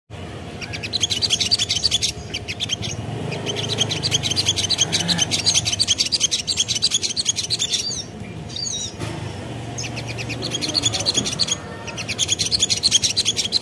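Sogon (a sunbird) singing: rapid trains of high chirps in bursts of one to a few seconds with short breaks, and a few sliding notes about eight seconds in, over a low hum.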